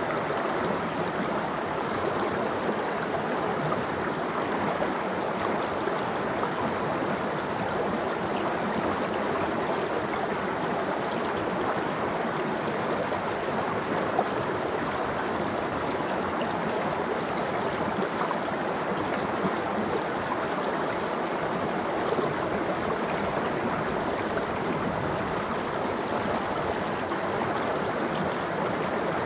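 Stream water flowing steadily over rocks in an icy valley, an even rushing with faint gurgles.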